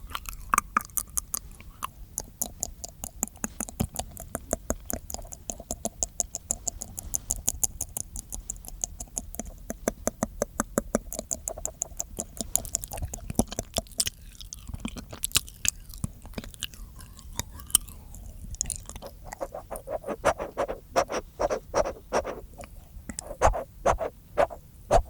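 Close-miked ASMR mouth sounds: rapid wet clicking and smacking of the tongue and lips, many clicks a second, turning louder and more spaced out in the last few seconds.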